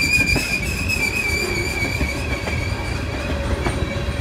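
Freight train of tank cars and centerbeam flatcars rolling past, with a steady low rumble of wheels on rail. A high, steady wheel squeal fades past halfway, and a lower squeal tone comes in during the second half.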